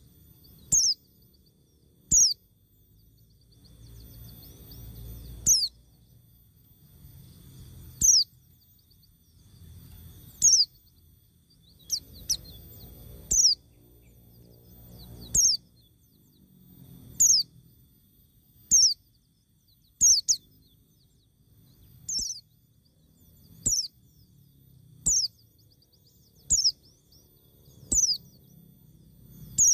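A bird calling a short, high note that falls in pitch, repeated over and over about every one and a half to two seconds, with a faint low rumble between calls.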